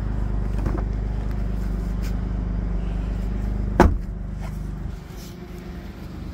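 Dodge Charger's 2.7-litre V6 idling steadily. A single sharp knock comes near four seconds in, and after it the idle sounds fainter.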